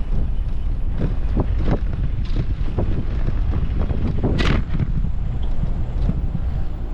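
Wind buffeting an outdoor camera microphone, a continuous low rumble, with scattered short knocks or clicks and one sharper brief noise about four and a half seconds in.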